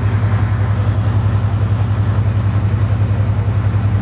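Napier Deltic diesel engine of Class 55 locomotive 55022 running steadily, a low drone with a regular pulse several times a second.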